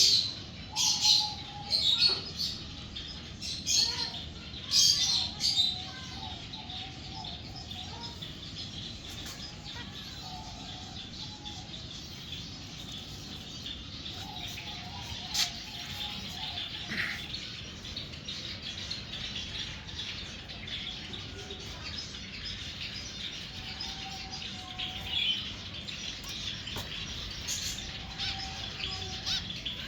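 Finches chirping and calling, with a run of loud, rapid chirps in the first six seconds, then softer, scattered chirps for the rest.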